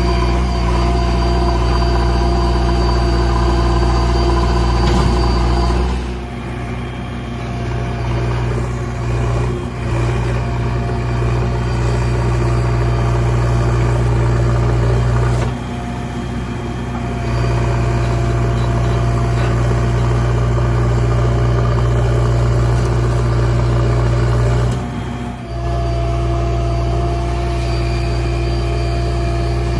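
JCB ecoXcellence backhoe loader's diesel engine running steadily, its note dipping and changing briefly three times as the load on it shifts.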